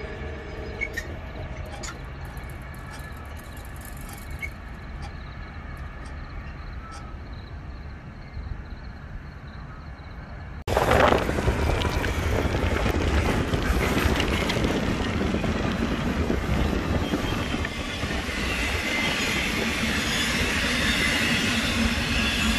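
For the first ten seconds, a moderate background with a few faint clicks. Then the sound jumps suddenly to the loud, continuous noise of a train passing close by, its cars and wheels running on the rails, with a higher squealing band growing near the end.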